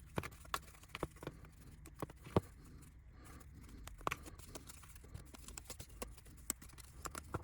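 Faint, irregular light taps and clicks of small laser-cut wooden kit parts being handled, pressed out and set down on a work surface, with a couple of sharper clicks.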